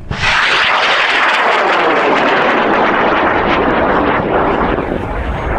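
High-power rocket motor firing at liftoff: a loud rushing roar that sets in abruptly and carries on steadily, easing off slightly toward the end as the rocket climbs away.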